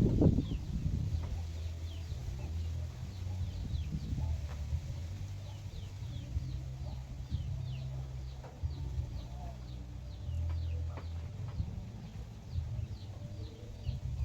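Free-range chickens: chicks peeping over and over in short, high, falling chirps, with a hen clucking now and then. A steady low rumble runs underneath, loudest at the very start.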